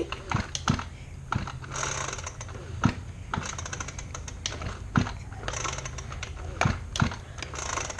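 Leaf blower's recoil pull-starter being yanked about three times on a cold start at full choke, each pull a short rasping zip among clicks and knocks, with the engine not catching.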